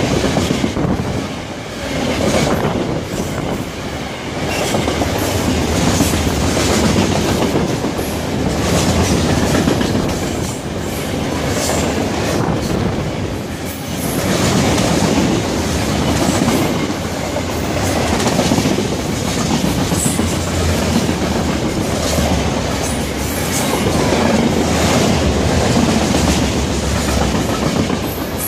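A long freight train's cars rolling past close by at track speed, steel wheels running over the rails in a steady loud rumble that swells and eases every couple of seconds as the cars go by.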